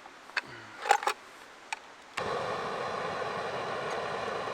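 A few sharp clicks and knocks, then about two seconds in a gas camp stove's burner comes on and runs with a steady hiss, heating water to a boil.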